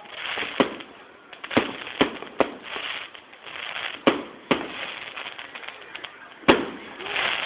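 Fireworks display: aerial shells bursting in a run of sharp bangs, about seven of them, with crackling between. The loudest bang comes near the end.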